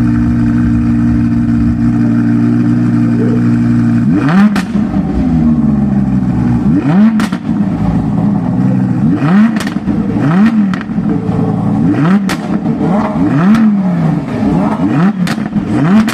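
Audi R8's 5.2-litre V10 engine running steadily for about four seconds, then blipped repeatedly, about eight quick revs that rise and fall back, each with a sharp crack.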